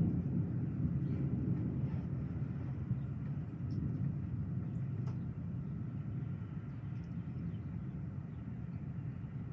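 Low rolling rumble of thunder slowly dying away.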